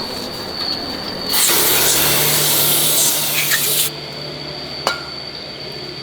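A loud burst of hissing air, about two and a half seconds long, starting a little after one second in and cutting off sharply, with a low hum under it; a single sharp click follows about a second later.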